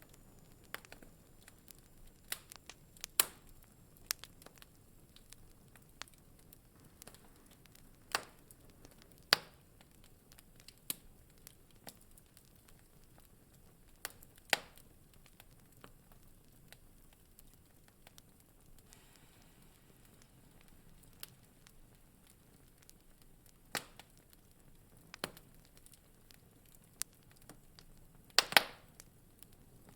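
Wood fire in a fireplace crackling: irregular sharp pops and snaps over a soft low hiss, with a few louder pops and a brief cluster of snaps near the end.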